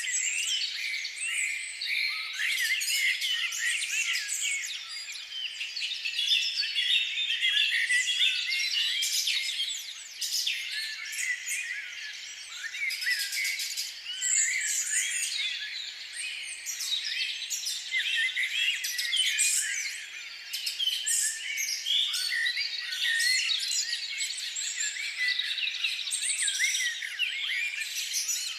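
A large flock of small birds chirping and calling all at once: a dense, unbroken chorus of many overlapping short, high chirps.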